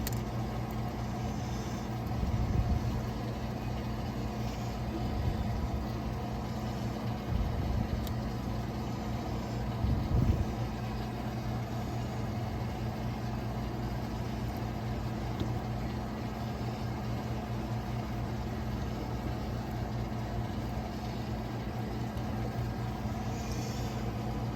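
Steady low mechanical hum of a running motor or engine, with a few dull knocks in the first half.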